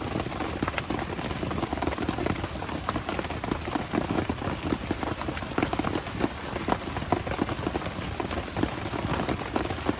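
Steady rain falling on a surface: a dense, irregular run of drop hits over a constant hiss.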